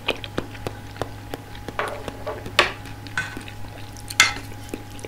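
Close-miked wet chewing of a mouthful of soft tofu, with many small mouth clicks and two louder smacks about two and a half and four seconds in.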